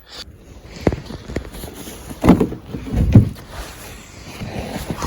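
Snow being brushed and knocked off a car with a snow brush: rough scraping with a few dull thumps, the loudest between about two and three and a half seconds in.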